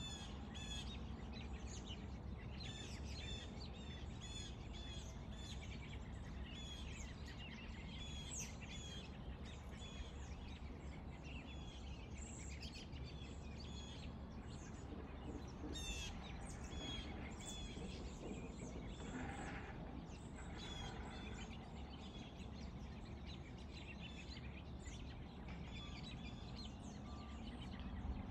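Small birds chirping: runs of short, high chirps a few per second, thinning out after about ten seconds, with a couple of lower, harsher calls later, over a steady low outdoor rumble.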